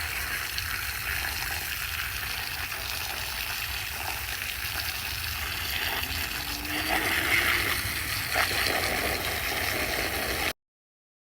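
Steady rush of water spraying onto mud-caked dirt-bike riding gear, with a low rumble underneath. It gets a little louder about two-thirds of the way through and cuts off suddenly near the end.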